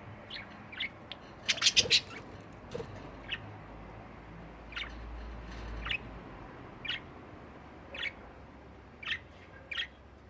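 Budgerigars chirping: short, separate chirps about once a second, with a louder cluster of sharp sounds about two seconds in.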